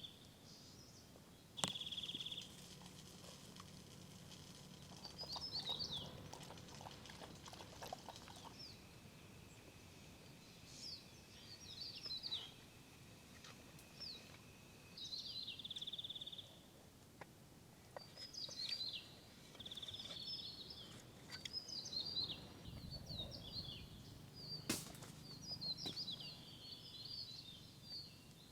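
Wild birds calling: quick high chirping and warbling notes, with a short buzzy trill repeated several times. Two sharp clicks cut in, one about two seconds in and a louder one near the end.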